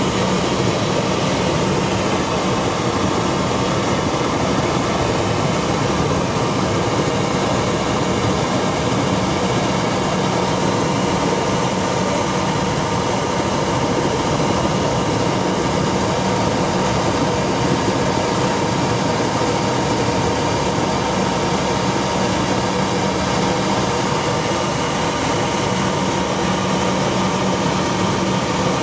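Helicopter in flight heard from inside the cabin: a loud, steady drone of rotor and engine noise, with a constant hum near the top and a low steady tone beneath it.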